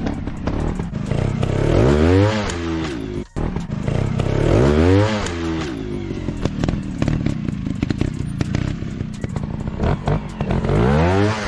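Dirt bike engine running and revving, rising and falling in pitch three times: about two seconds in, around the five-second mark, and again near the end.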